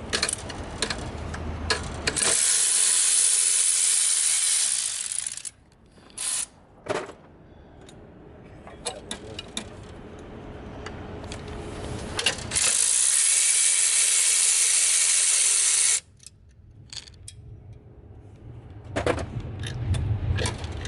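A power tool run in two steady bursts of about three seconds each, starting and stopping sharply, with hand tools clicking and clinking between them as a part is worked off the engine.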